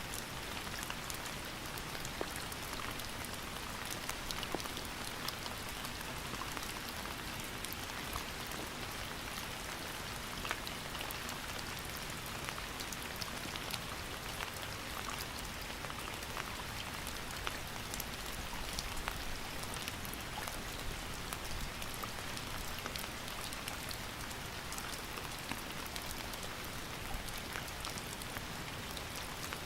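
Steady rain falling, with individual drops pattering on a surface over a continuous hiss.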